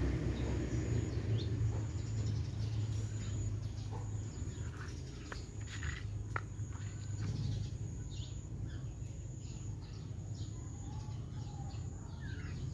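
Small birds chirping, many short high calls scattered throughout, over a low rumble that eases after the first few seconds.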